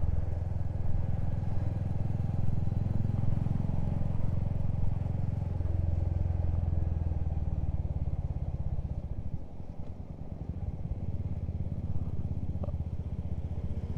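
Motorcycle engine running steadily while riding along, heard from the bike with road and wind noise; it eases off briefly about ten seconds in, then picks up again.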